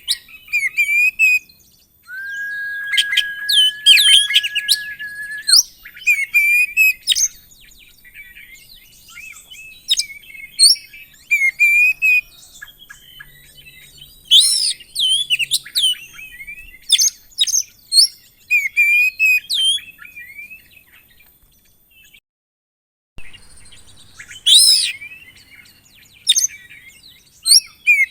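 Oriental magpie-robin (kacer) singing a loud, varied song of quick sharp chirps, sweeping whistles and trills, with one long steady whistled note about two seconds in. The song cuts out for about a second roughly three-quarters of the way through, then resumes.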